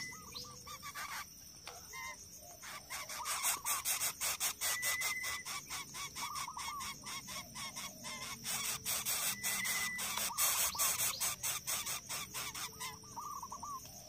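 Birds calling in short repeated chirps, with a brief high whistled note every few seconds, over a dense run of rapid clicks that is loudest in the middle.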